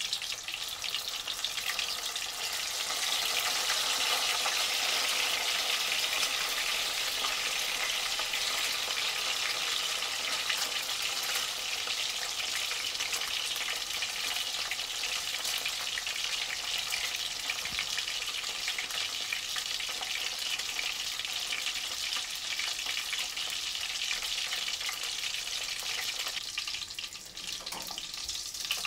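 Rice-paper spring rolls deep-frying in a small pan of hot oil: a steady, dense sizzle and crackle as they fry until golden. The sizzle drops briefly near the end.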